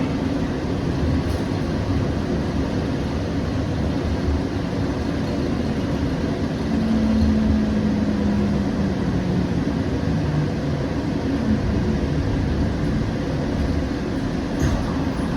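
Siemens S700 light rail car heard from inside while running, a steady low rumble. A motor whine falls in pitch partway through as the train slows into a station.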